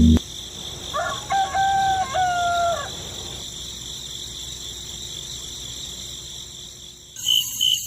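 A rooster crowing once, about a second in: a call of several held notes, over a steady high hiss. Near the end a rapid, repeated high beeping starts.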